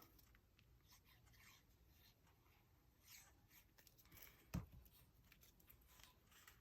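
Near silence, with faint rustling of paper being handled and one soft tap about four and a half seconds in.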